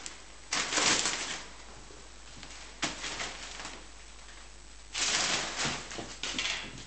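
Kittens playing: bursts of rustling and scratching as they scrabble about, with a sharp tap a little before the middle.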